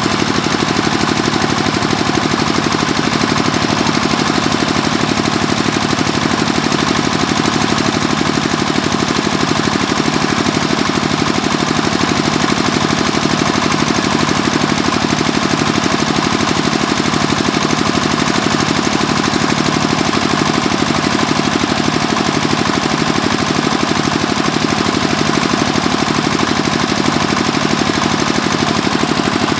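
Engine of a borewell drilling machine running steadily with a fast, even knocking beat.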